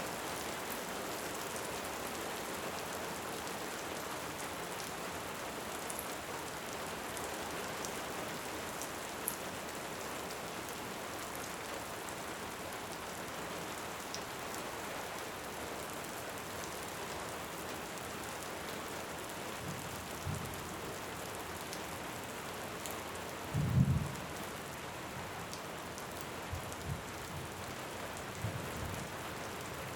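Steady heavy rain with a few faint fire crackles, joined about two-thirds of the way in by short, low rumbles of distant thunder, the loudest a little before the end.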